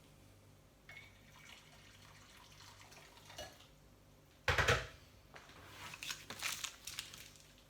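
Kitchen tap water splashing into a bowl: a short loud rush about halfway through, then softer splashing and handling noises.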